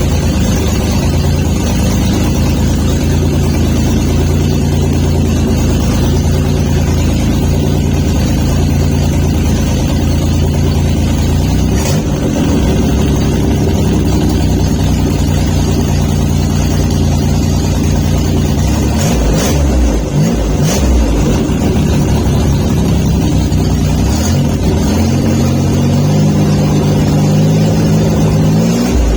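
Built, supercharged GM 3800 V6 (Eaton M90 supercharger) running on its first cold start after the build, idling steadily. Its speed wavers twice, and near the end the revs climb.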